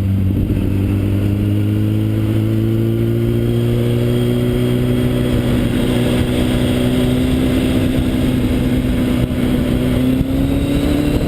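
Motorcycle engine running steadily, its pitch climbing slowly and smoothly as it gathers speed, over constant road noise.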